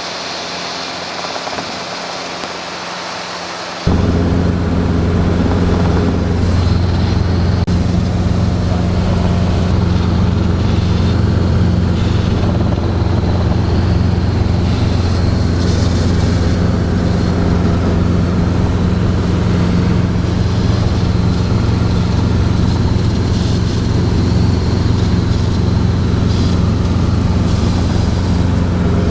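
Robinson R22 helicopter in cruise heard from inside the cabin: a steady, low engine and rotor drone. It jumps sharply louder about four seconds in, then holds steady.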